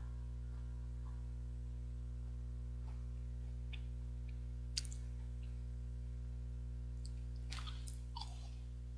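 Biting and chewing a 21-grain chocolate bar: scattered small clicks and crunches, the sharpest about five seconds in and a short cluster near the end, over a steady low hum.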